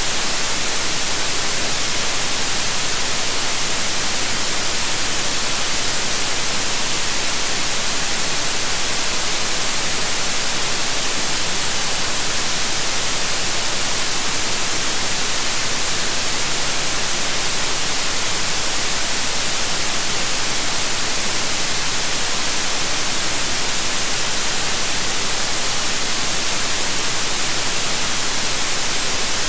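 Electronically generated white noise: a steady, even hiss with the most energy in the high frequencies, unchanging throughout.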